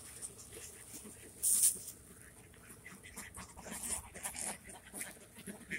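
Lakeside birds, ducks among them, making short irregular calls, with a brief loud noisy burst about one and a half seconds in.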